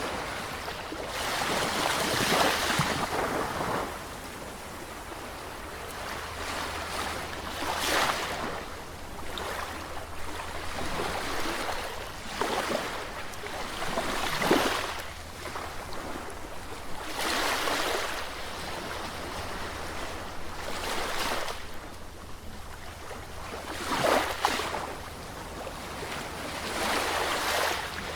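Sea waves surging in and washing back, a fresh rush of surf every three to four seconds.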